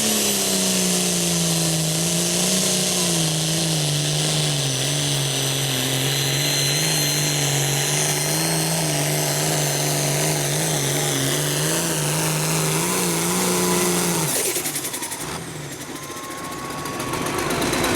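Super stock pulling tractor's turbocharged diesel engine held at full throttle under heavy load during a pull, its note steady with a slight wobble and a high whine over it. About 14 seconds in, the engine note cuts off suddenly as the throttle is pulled back, and the sound drops away.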